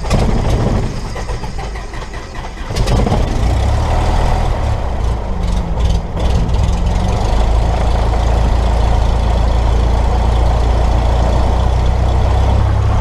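Cessna 172's piston engine and propeller running just after a start. It steps up louder about three seconds in, then holds a steady, even run.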